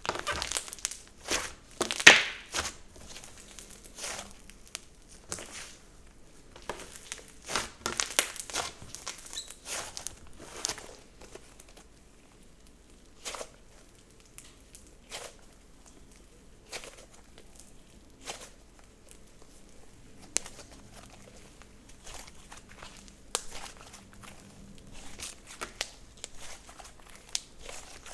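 Slime being squished and stretched by hand, giving crackly clicks and small pops. The sounds come thick and fast for about the first ten seconds, then thin out to scattered single pops.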